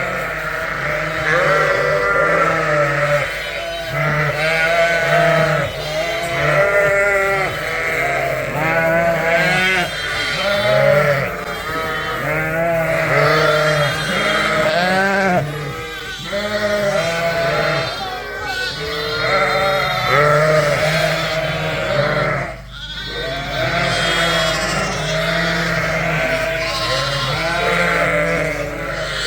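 A barnful of ewes and lambs bleating over one another without a break, deep and high calls overlapping. The ewes and lambs are calling to find each other after being moved and mixed together.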